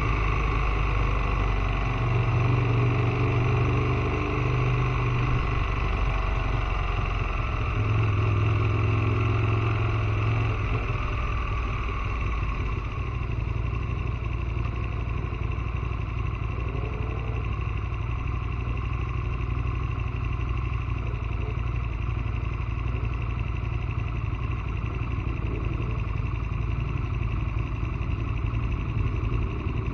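Rock music with distorted guitar for about the first twelve seconds, giving way to the Aprilia Tuono motorcycle's engine running steadily at low revs.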